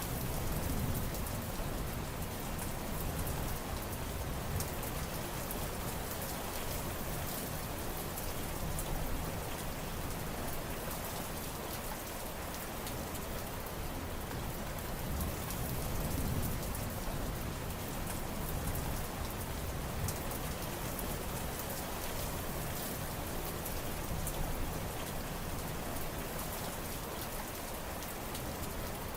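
Steady rain falling in a dense, even patter of drops, with a low rumble underneath that swells and fades slowly.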